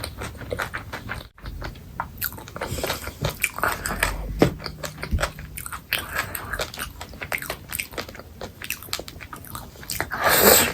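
Close-miked eating of chicken curry: biting, chewing and crunching with many small wet clicks and smacks. A loud rushing, breathy noise swells up near the end.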